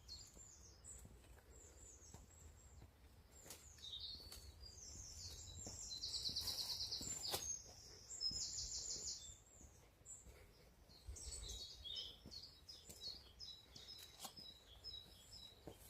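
Songbirds chirping and singing, with a fast trill about six seconds in and another about eight seconds in; a faint low rumble underneath.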